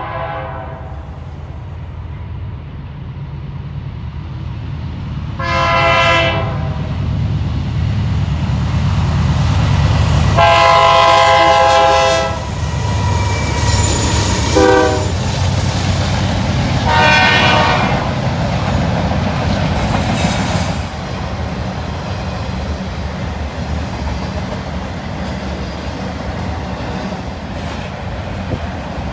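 Train horn sounding several blasts, one short, one longer, a very short toot and another short one, over the steady low rumble of a moving train. A brief rush of noise comes about two-thirds of the way through.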